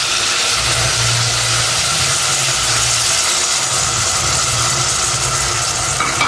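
Shallots frying in coconut oil in a clay pot, sizzling with a steady hiss as tamarind water is poured in.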